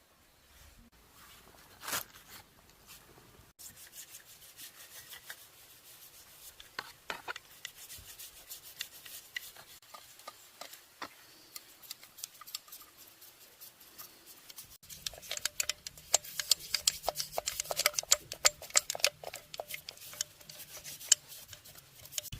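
Quick, scratchy rubbing and scraping strokes on a hard part, with a sharp click about two seconds in; the strokes get faster and louder about two-thirds of the way through.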